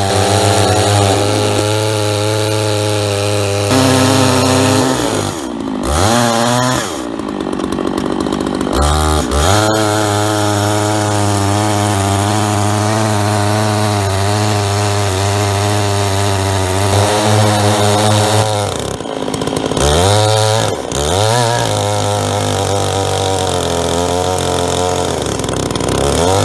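Chainsaw running at high revs in a chainsaw mill, ripping through a sycamore log. The engine note drops and picks up again several times as the throttle is eased and reapplied.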